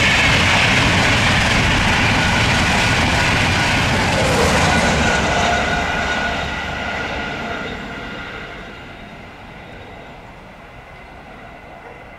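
Express passenger train passing close at speed: a loud rush of wheel and rail noise that fades steadily after about five seconds as the train draws away.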